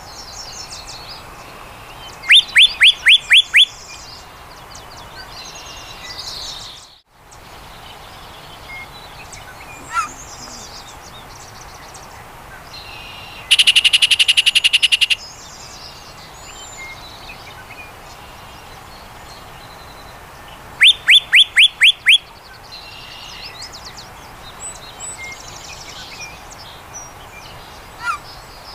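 Yellow-breasted chat singing its jumbled song: a run of about six quick downslurred whistles, a fast rattling series about halfway through, another run of whistles later on, and scattered short calls in between, over a steady background hiss.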